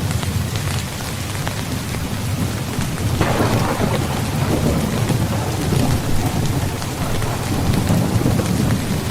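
Steady heavy rain with a low rumble, and a thunderclap breaking in about three seconds in, then rolling and fading over the following seconds.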